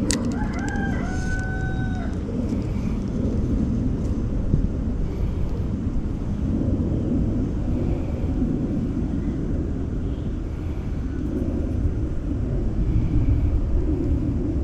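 A single bird call in the first two seconds: short rising notes, then one long held note. A steady low rumble underneath.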